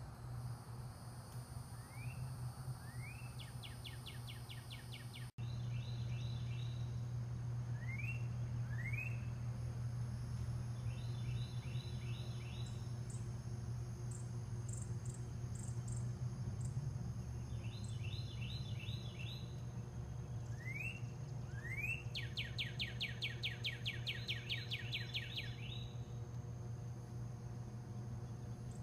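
A songbird repeats its song several times: two quick rising whistles, then a fast trill. Thin, high, short notes come in a short series near the middle, over a steady low hum.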